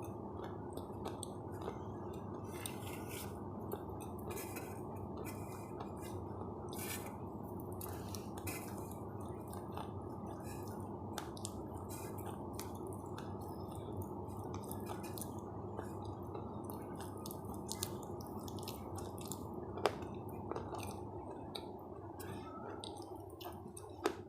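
Close-miked eating: soft chewing with many small wet mouth clicks over a steady low hiss, and a sharper click about twenty seconds in.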